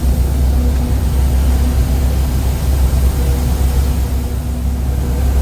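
Peterbilt 359 truck's diesel engine idling, heard from inside the cab as a steady low rumble with a faint hum above it.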